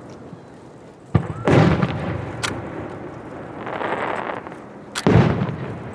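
Aerial fireworks shells bursting: two loud booms about four seconds apart, each a sharp crack followed by a heavy rumbling burst, with a short crack and a softer swell of noise between them.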